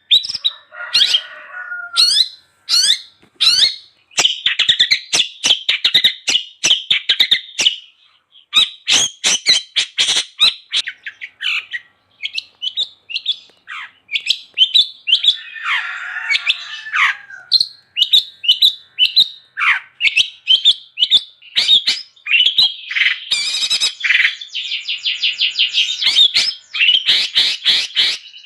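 Long-tailed shrike (cendet) singing energetically without pause: a fast, varied stream of sharp chirps and quick downward-sweeping whistles, broken by a couple of harsher, rasping notes.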